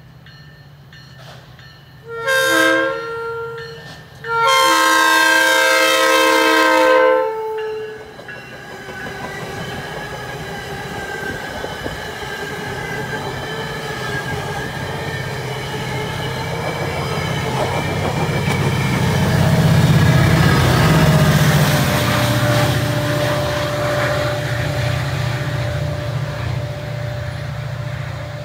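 Virginia Railway Express commuter train sounding its horn at a grade crossing, a short blast and then a long one. The train then runs past with a steady rumble and clatter of wheels. The rumble swells as the diesel locomotive pushing at the rear goes by, a little after the middle.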